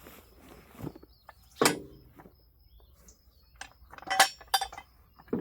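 A few sharp metallic clinks and knocks from metal tools striking metal. The loudest is about a second and a half in, with a short cluster near the four-second mark.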